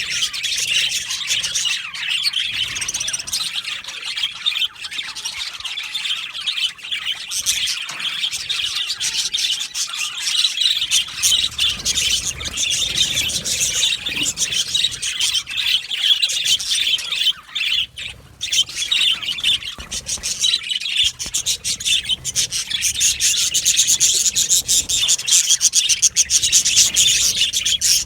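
A group of budgerigars chattering, with many rapid overlapping chirps and squawks at once; the chatter briefly thins about two-thirds of the way through.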